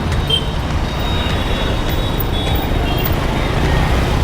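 Busy city road traffic: a steady low rumble of engines, with a few brief high-pitched beeps in the first couple of seconds.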